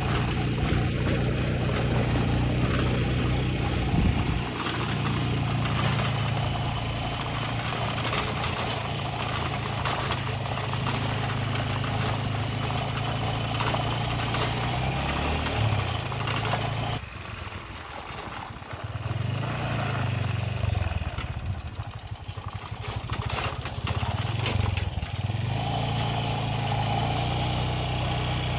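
An engine running steadily, easing off about 17 seconds in and picking up again a few seconds later.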